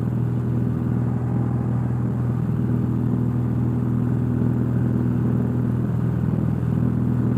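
Cessna 172's piston engine and propeller droning steadily at full power during the climb-out just after takeoff, heard from inside the cockpit.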